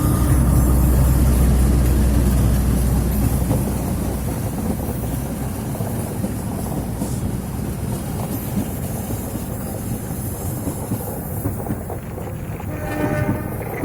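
Diesel train running past: a heavy low locomotive rumble for the first few seconds, then the rolling noise of the cars on the rails, slowly getting quieter. A short pitched tone sounds near the end.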